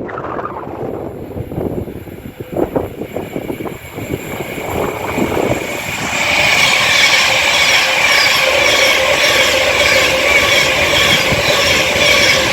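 Class 390 Pendolino electric train passing through the station at speed without stopping. A rumble with scattered knocks grows from about four seconds in to a loud, steady rush with high ringing tones for the rest.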